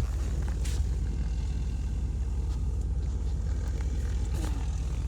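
Steady low engine rumble with a short sharp click right at the start.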